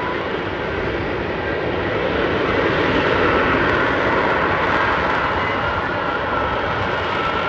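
Fighter jet flying past, its engine noise loud and continuous, growing a little louder a few seconds in and then easing slightly.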